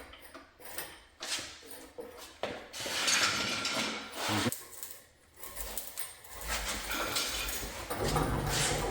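Scattered metallic clinks and knocks, then stretches of scraping and a low rumble, as a car engine is hoisted and worked loose in the engine bay.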